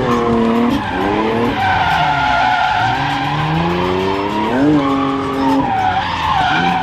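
Drift car sliding with its tyres squealing while the engine revs rise and fall, climbing again about two-thirds of the way through.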